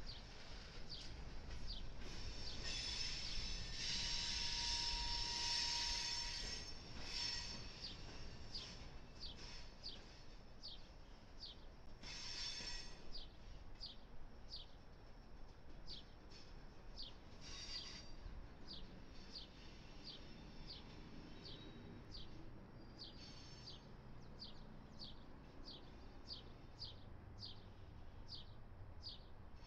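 Double-stack container train rolling past with a steady wheel squeal in the first few seconds, fading as the last cars go by. Through the rest, a bird repeats short descending chirps about once or twice a second.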